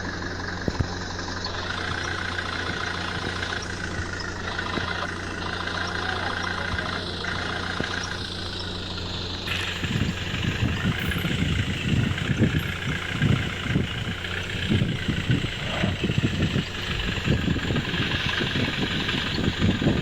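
Truck engine running steadily. About halfway through, uneven low thumps and rumbles join in and continue to the end.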